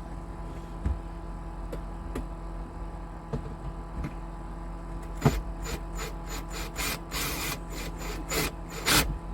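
Sharp clicks, taps and scrapes of hardware and hand tools being handled. They are scattered at first, then come in a quick irregular run in the second half, over a steady low hum.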